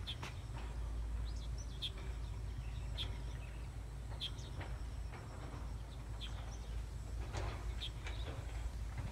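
A bird chirping again and again, short high chirps about once a second, over a steady low rumble.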